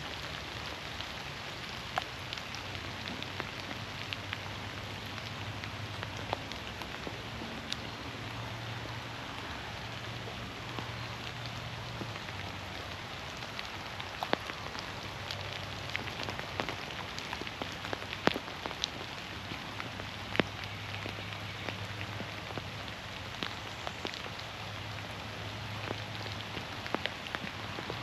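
Steady rain falling on a forest, with many single drops striking close by as sharp taps scattered through it.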